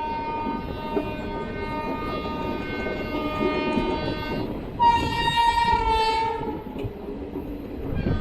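Diesel or electric locomotive horn sounding twice: a long steady blast of about four and a half seconds, then a louder, shorter blast that sags slightly in pitch. A low train rumble runs underneath.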